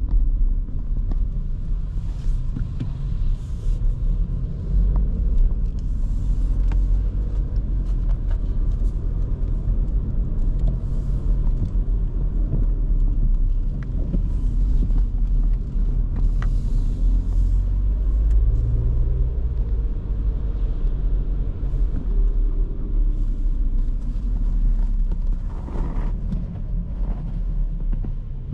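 A 2023 Škoda Kamiq 1.0 TSI under way, with the steady low rumble of its three-cylinder turbo petrol engine and its tyres on the road.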